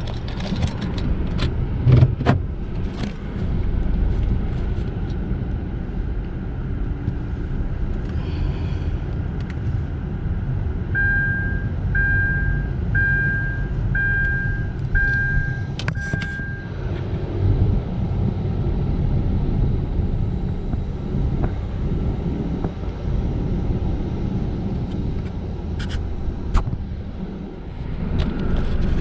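A car running, a steady low rumble with scattered clicks. In the middle come six short beeps about a second apart.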